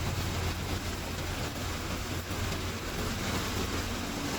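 Industrial recycling-line machinery running steadily: a constant low hum under an even mechanical noise.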